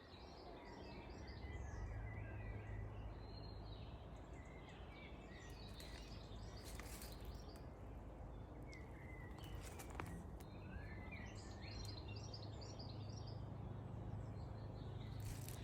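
Small birds chirping and twittering on and off over a steady low rumble, with a few sharp clicks.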